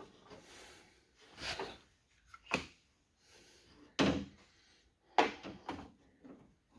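A handful of separate knocks and clunks of car door parts being handled and fitted, the loudest about four seconds in.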